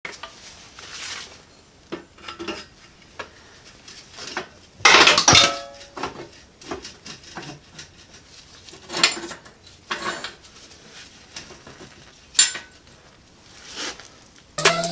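Metal objects being handled and knocked together: scattered clinks and knocks, with one loud ringing metallic clank about five seconds in.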